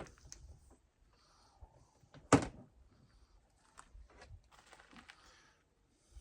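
One solid thunk about two seconds in, among a few lighter clicks and knocks of objects being handled and set down in a small room.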